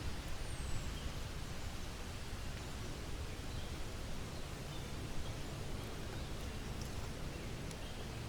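Steady rain falling, an even hiss, with a few faint high chirps and light ticks now and then.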